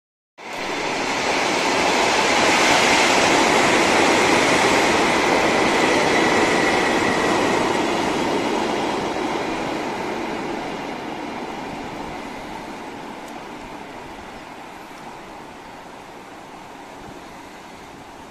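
A train running over a concrete railway bridge, with a steady rumble of wheels on rails and a high whine during the loudest first several seconds. The sound fades away steadily as the train moves off.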